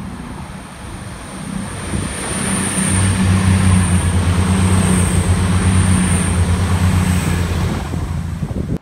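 Diesel passenger train approaching and passing close beneath, its engine hum and the rush of wheels on rail growing loud about three seconds in and holding steady, then cutting off suddenly near the end.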